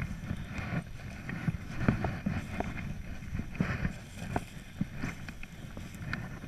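Wind rumbling on the microphone outdoors, with scattered light clicks and rustles at irregular intervals.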